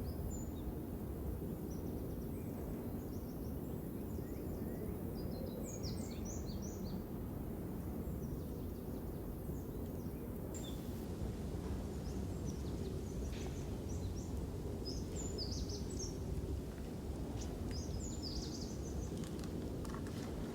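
Small birds chirping in short bursts of quick calls several times, over a steady low background rush.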